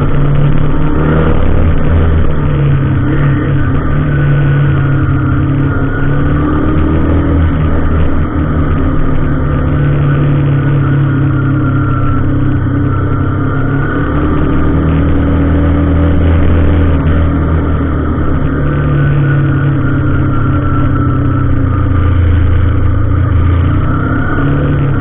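Vehicle engine running steadily and loudly, its pitch climbing and dropping back several times as it revs up through the gears and eases off.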